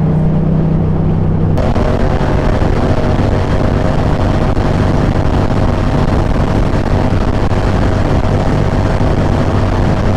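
Yamaha XSR700 parallel-twin motorcycle engine running steadily while riding. Wind rush on the microphone comes in suddenly about a second and a half in and stays over the engine.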